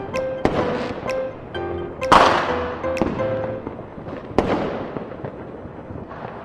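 Fireworks exploding: about five sharp bangs, the loudest about two seconds in and trailing off in a long hiss, over background music that fades out about halfway through.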